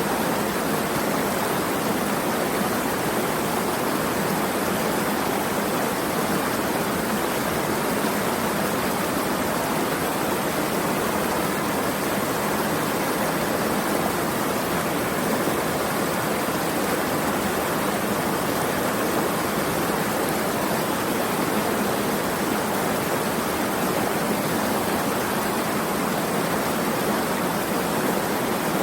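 Steady rushing of running water, an even unbroken noise without distinct splashes or drops.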